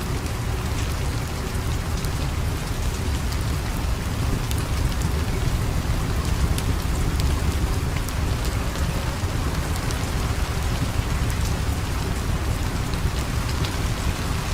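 Steady rain falling, with a deep low rumble underneath and scattered sharp crackles and ticks throughout.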